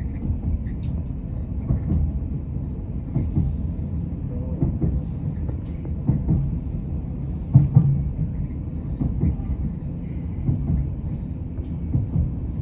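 Inside a TransPennine Express passenger train running on the line: a steady low rumble with frequent irregular knocks and clacks from the wheels and track, one louder knock about halfway through.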